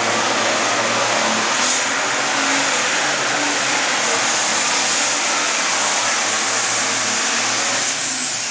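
Altered farm-stock pulling tractor's diesel engine running loud and hard at high revs, with a high whine that falls steeply in pitch near the end as the engine comes off power.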